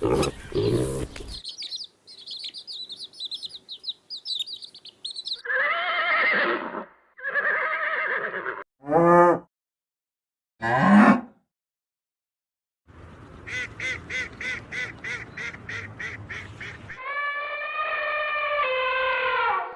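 A sequence of different animal and bird calls in turn, separated by short silences. First comes high chirping, then two short calls, two quick calls that glide in pitch, a rapid series of about three pulses a second, and a longer call near the end.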